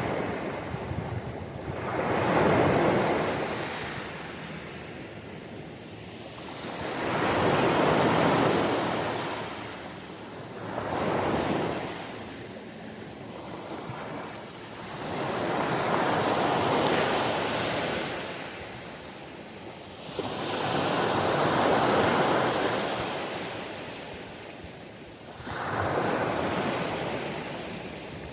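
Ocean waves washing onto a shore, six slow surges that each swell up and then fade as the water draws back, roughly every five seconds.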